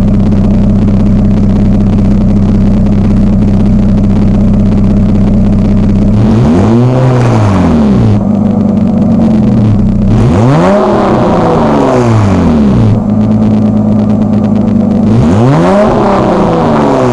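Mazda KLZE 2.5-litre V6 in a Ford Probe GT, through a side-exit exhaust, idling steadily, then revved up and let fall back three times, a few seconds apart.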